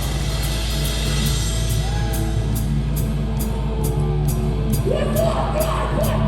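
Live hardcore band sustaining a droning chord on guitar and bass, with light, even cymbal ticks about twice a second. A vocalist's rising shout comes in near the end.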